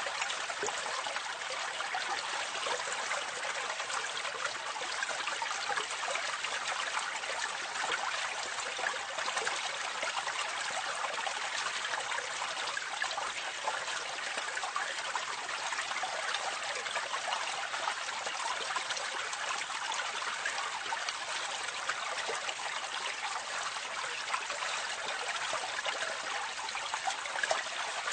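Water running and splashing into a drain or gully, recorded close up: a steady, unbroken trickling rush with a fine crackle of droplets and little low rumble.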